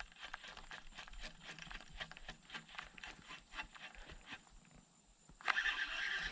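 A fishing reel clicking rapidly, about five light clicks a second, as line is cranked in. It stops about four and a half seconds in, and a louder steady hiss starts abruptly about a second later.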